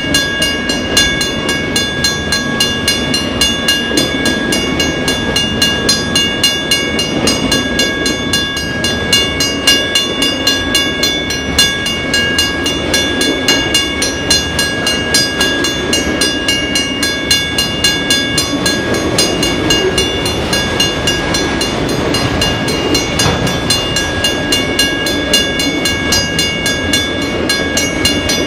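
Freight train of autorack cars rolling past: a steady rumble and clatter of wheels on rail, with steady high-pitched ringing tones over it.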